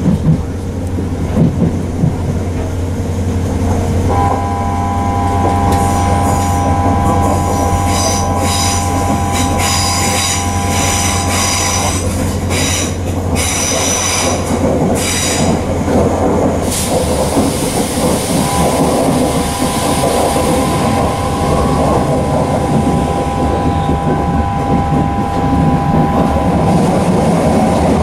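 Class 323 electric multiple unit heard from inside the carriage running at speed: a steady rumble of wheels on rail with a steady electric whine from the traction equipment. A high-pitched, pulsing wheel squeal rises about six seconds in and dies away about ten seconds later.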